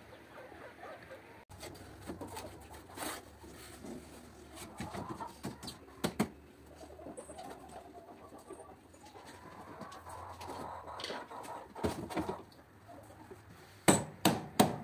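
Birds calling softly with low, wavering calls, over scattered sharp knocks from a wooden shelf unit being handled. A quick run of louder knocks comes near the end.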